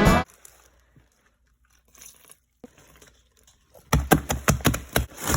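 Background music cuts off just after the start, leaving a few seconds of near quiet. About four seconds in, a quick run of sharp, irregular clicks and crinkling handling noises begins.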